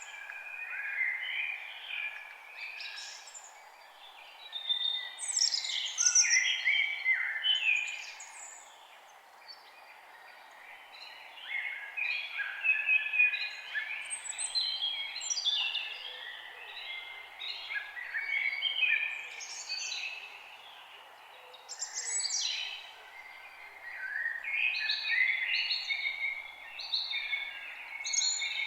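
Several forest birds singing at once: a busy chorus of chirps and warbled phrases, with a brief lull about a third of the way in, over a faint steady hiss of background noise.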